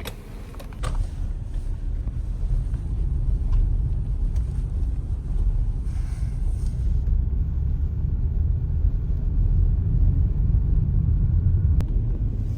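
Car driving, with a steady low road and engine rumble heard inside the cabin.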